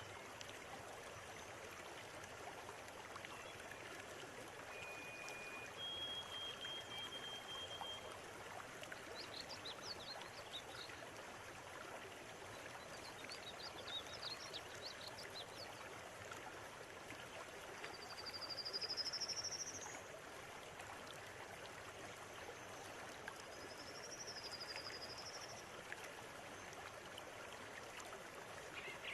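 River water running steadily, with wild birds calling over it: a few held high whistled notes, short bursts of chattering, a rising whistle about two-thirds of the way through that is the loudest sound, and a wavering call near the end.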